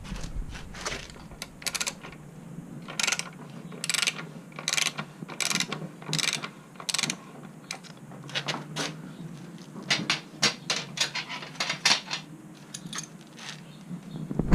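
Ratchet head of a large torque wrench clicking as it is swung back and forth to work a motorcycle's rear axle nut loose. The clicks come about once a second at first, then faster and closer together later on.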